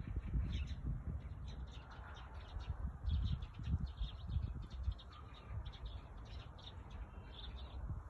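Small songbirds chirping and twittering in many short, quick calls, with a low, uneven rumble underneath.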